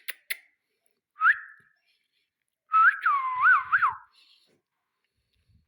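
Whistling: a short rising whistle, then a run of clear whistled notes sliding up and down, after a few sharp clicks at the start.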